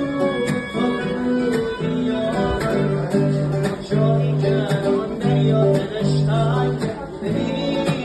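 Music on a plucked string instrument like an acoustic guitar, with sharply struck notes about twice a second over held tones.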